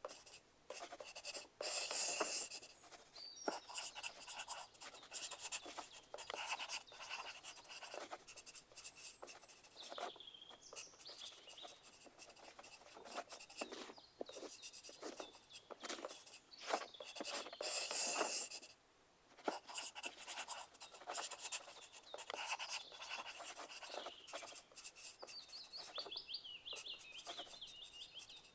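Pencil writing on paper: a continual run of quick scratchy strokes, with louder, denser spells about two seconds in and again around eighteen seconds.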